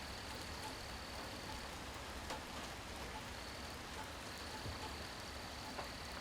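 Steady rain falling, with a few faint sharp drip ticks. A thin, high, steady whine sits above the rain, breaking off about a second and a half in and again near the middle before it resumes.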